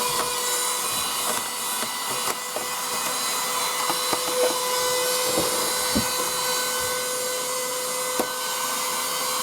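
Small vacuum cleaner running steadily with a constant motor whine and rushing air, sucking dust out of the inside of a PlayStation 4, with a few light clicks and knocks as the nozzle touches the parts.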